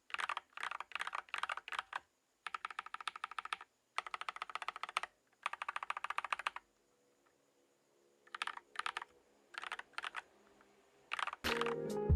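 Typing on a stock Tom680 (TM680) 65% mechanical keyboard fitted with Tex ADA profile keycaps: fast runs of key clacks in bursts with short pauses, thinning out to scattered keystrokes before music comes in near the end.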